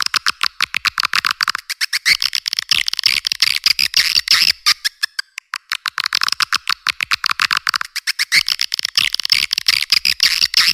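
A swiftlet call-sound recording of the kind played to lure swiftlets into a nesting house: rapid, dense twittering chirps, about ten a second, with a few short pauses.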